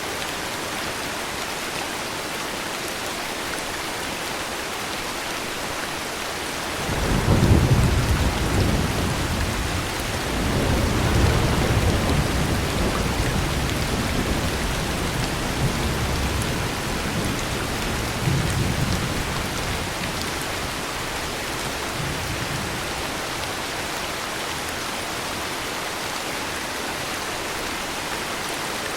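Steady heavy rain, with a roll of thunder that breaks in suddenly about a quarter of the way through, rumbles in several swells for over ten seconds and fades back into the rain.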